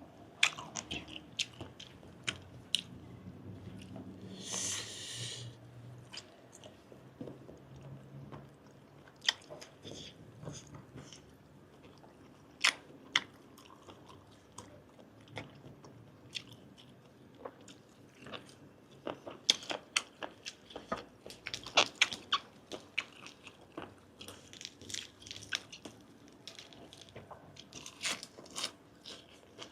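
Close-up mouth sounds of someone chewing and biting giant octopus tentacle: wet, irregular clicks and smacks, with a short hiss about four seconds in.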